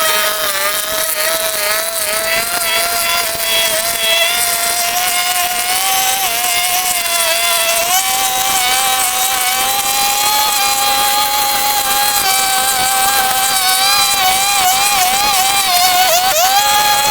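A high-speed motor whining steadily, its pitch creeping slowly higher and dipping and wobbling briefly near the end, as if under changing load.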